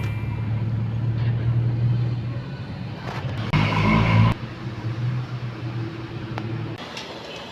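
Car engine running with a steady low hum. It swells louder for about a second, three and a half seconds in, then drops away shortly before the end.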